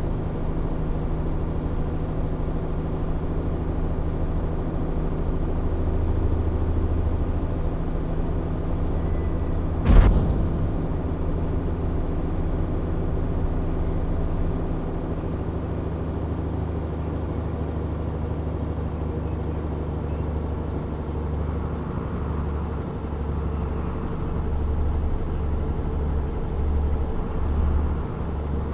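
Tanker truck's diesel engine running steadily while driving, a low even hum. There is a single sharp knock about ten seconds in, and the hum pulses unevenly in the last few seconds.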